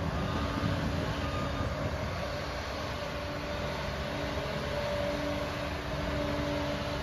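Liebherr PR 746 crawler dozer working: heavy diesel engine running steadily, with a dense metallic clatter from its steel tracks and a faint steady whine over it.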